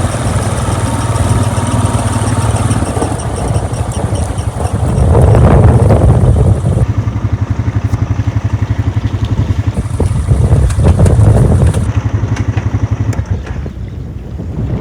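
A motor vehicle's engine running with an even, rapid pulse, getting louder about five seconds in and again about ten seconds in.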